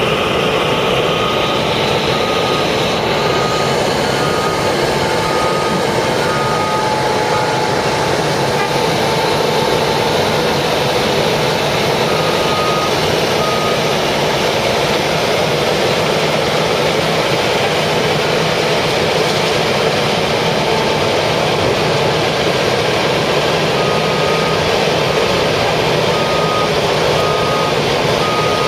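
Heavy road-paving machinery running loudly and steadily, with a reversing alarm beeping in an even series of about one beep a second. The beeping comes in spells near the start, briefly in the middle, and again near the end.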